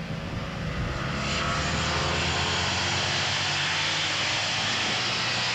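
Motorcycle engines running on a track, a steady engine drone that grows louder about a second in and stays loud.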